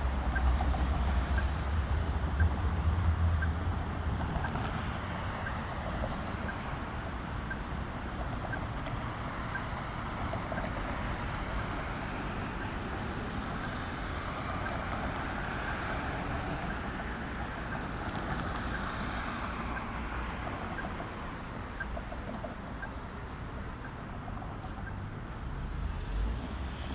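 City street traffic: a steady wash of passing road vehicles, with a heavier low rumble from a vehicle passing close by in the first few seconds.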